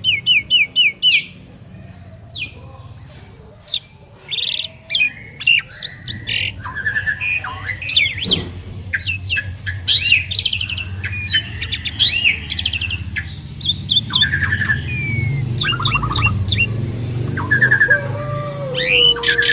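Jalak suren (pied starlings) singing: a fast, varied jumble of chirps, whistles and clicking notes. There is a short lull a couple of seconds in, after which the song becomes almost continuous. A faint low hum runs underneath.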